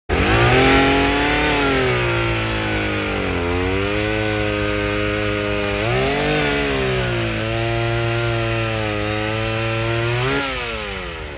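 Vintage two-stroke chainsaw running and cutting through wood, its engine pitch sagging under the load of the cut and picking up again briefly about six seconds in and near the end.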